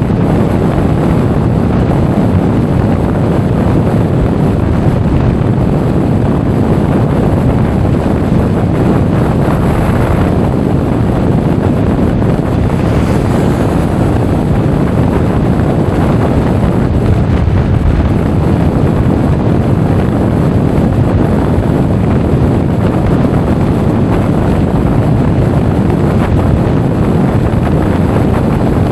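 Steady, loud wind noise buffeting the action camera's microphone on a moving Honda Forza 350 scooter, with the rumble of the ride underneath.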